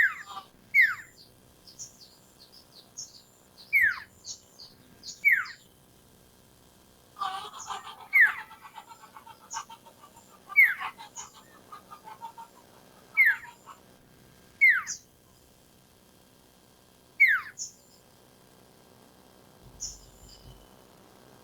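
Recorded song of a sirtu, an iora. It is a series of loud, sharply falling whistled notes, about nine of them a second or two apart, mixed with short high chips. A burst of rapid chattering comes about seven seconds in.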